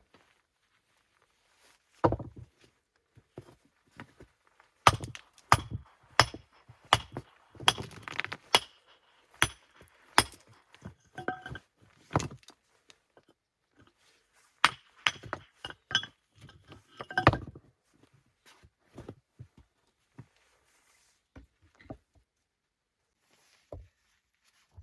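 Irregular sharp knocks and clinks of hard objects striking one another, some with a brief ringing. They come in clusters from about two seconds in until about eighteen seconds, then thin out to a few faint taps.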